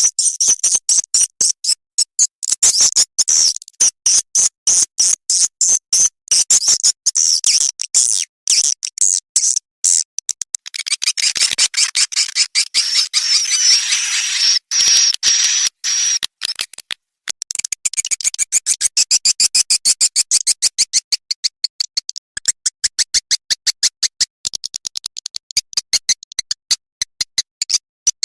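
Swiftlet lure call, a recording of swiftlet chirps played to draw the birds into a swiftlet house: fast, steady trains of high, clicking chirps pulsing several times a second, with a denser stretch of continuous twittering about halfway through.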